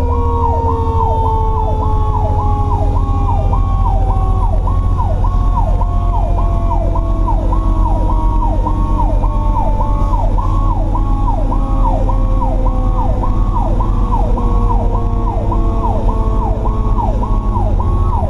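Fire truck running with sirens, heard from inside the cab. An electronic siren yelps about twice a second over a mechanical Q siren whose wail slowly falls in pitch and is brought back up every few seconds. Heavy engine and road rumble lies underneath.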